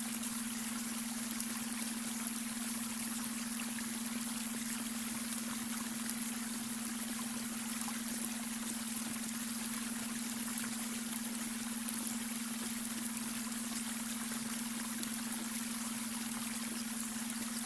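Babbling brook water running steadily, layered with a steady low hum: the beta brainwave tone mixed under the water.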